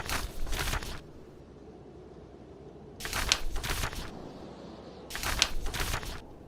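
Book pages being turned, each a crisp papery rustle lasting about a second: one trailing off at the start, then two more about 3 and 5 seconds in. Beneath them runs a steady low rumble of wind and fire.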